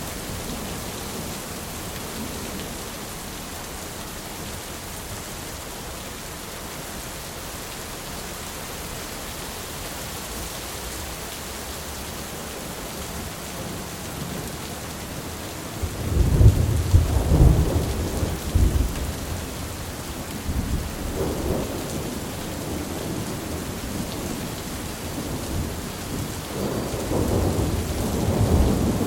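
Steady rain falling throughout, with thunder rumbling loudly about halfway through, a smaller rumble a few seconds later, and thunder building again near the end.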